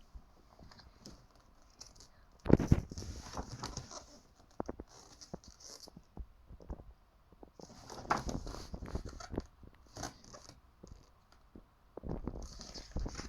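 Pages of a thick hardcover book being turned and handled: paper rustling and crackling with soft knocks of hands on the pages, in bursts about 2.5 s in, near 8 s and near the end.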